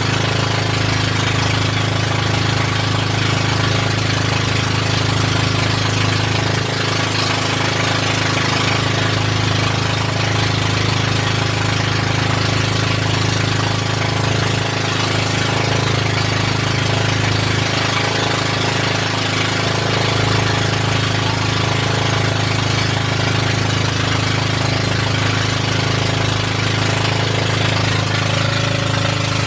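A boat engine running loud and steady at a constant speed, with a rough, hammering note and a hiss of rushing air and water over it.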